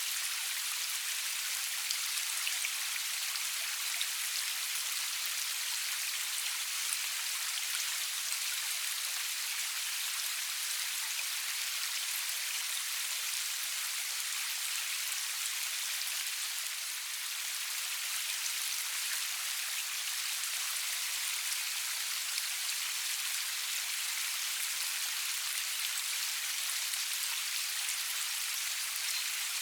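Steady rain falling, an even hiss of many drops with the odd louder drop-tick, no thunder.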